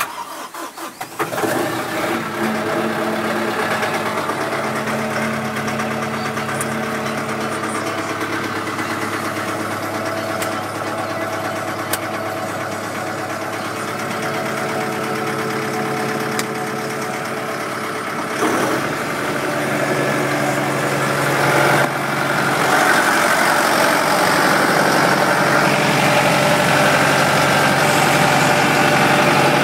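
Kubota M100X tractor's diesel engine cranking briefly and catching about a second in, then running steadily at idle. Near the end its speed and loudness step up twice, settling at a louder, higher running note.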